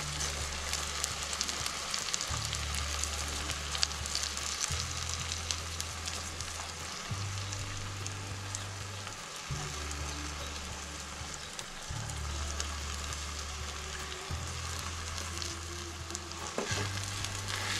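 Rice and spiced onion-ginger-garlic paste sizzling in hot oil in a pan as the rice is stirred in, with occasional clicks of the spoon against the pan. Soft background music with low bass notes plays underneath.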